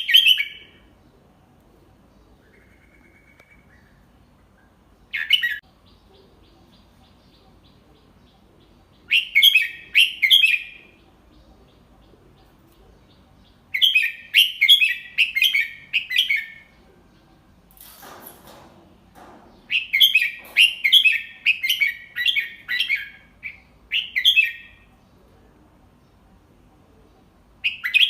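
Red-whiskered bulbul singing: phrases of quick, bright whistled notes, about five of them, separated by pauses of a few seconds, the longest phrase a few seconds before the end. A faint rustle sounds briefly a little past halfway.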